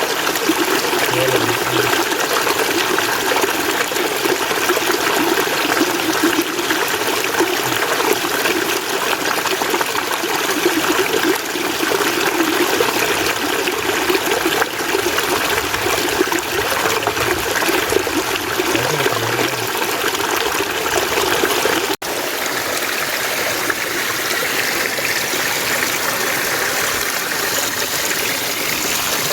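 Mountain stream water rushing and splashing steadily over rocks. It cuts out for an instant about two-thirds of the way through, then carries on with a little less of its deeper rush.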